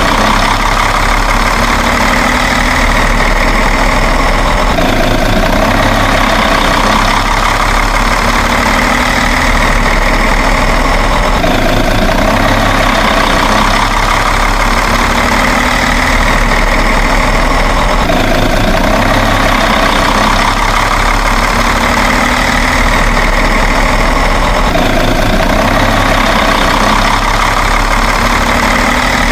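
Steady truck engine running at idle. The same stretch of sound repeats about every six and a half seconds, like a looped sound effect.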